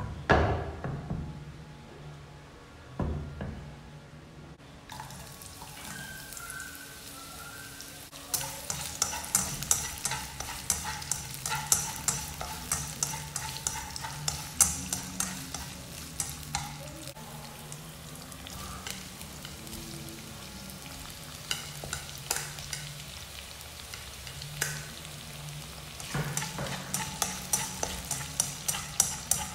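Onion and tomato pieces sizzling in hot oil in a nonstick wok, with a utensil clicking and scraping against the pan as they are stirred, about two strokes a second. The sizzle starts about five seconds in, after a couple of knocks against the pan.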